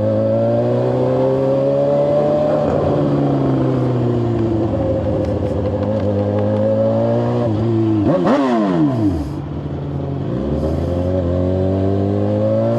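Engine of a Suzuki GSX-R750 inline-four sport bike pulling under acceleration. Its pitch climbs, falls back, drops sharply about eight seconds in, then climbs again.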